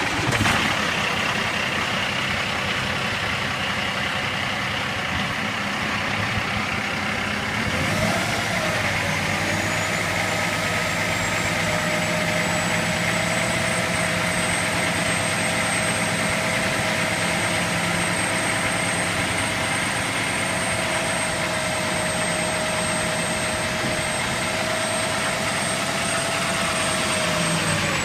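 Cummins ISX diesel engine of a dump truck idling just after starting. About eight seconds in, a steady whine joins it and holds, as the hydraulic hoist raises the dump box, then drops away near the end.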